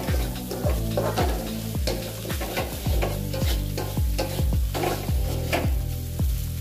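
A spatula stirring and scraping fried noodles with beef, bean sprouts and green onion in a hot pan, with sizzling. Background music with a steady beat, about two beats a second, runs underneath.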